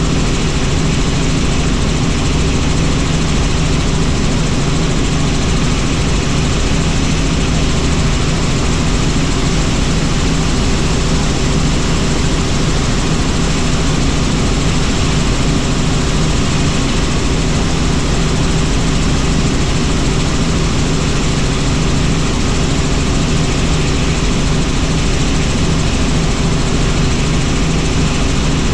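Helicopter running in flight: a loud, steady drone of engine and rotor, with a few low steady tones under a wide rushing noise.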